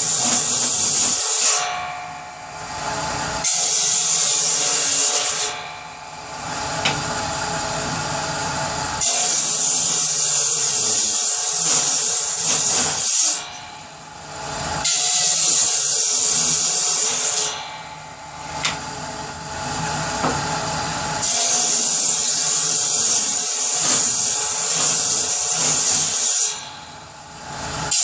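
Power saw cutting wood in a series of cuts, about five. Each cut is a loud, hissing stretch of a few seconds, and between cuts the saw runs on more quietly.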